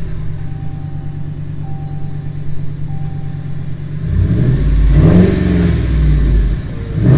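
2013 Ram 1500's 5.7 L Hemi V8 through true dual straight pipes (resonators and catalytic converters kept) idling steadily, then revved up about four seconds in, with a quick sharp blip near the end.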